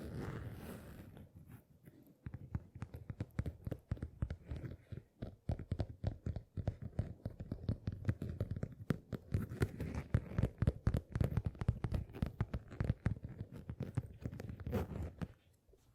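Fast, irregular tapping and scratching on an object close to the microphone, an ASMR trigger. It starts about a second and a half in and stops shortly before the end.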